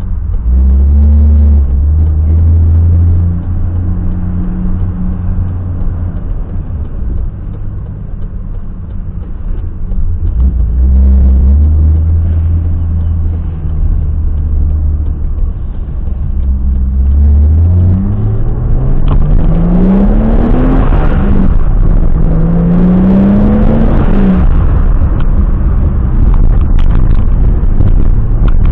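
Turbocharged BMW M20B27 2.7-litre straight-six in an E30, driving at low, steady revs, then accelerating hard: the engine note climbs twice, each climb cut off by a gear change.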